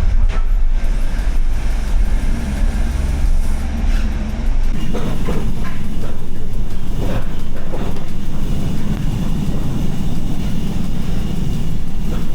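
Steady low vehicle rumble heard from inside the van's cab. About five seconds in, steady engine-like tones give way to a rougher running noise.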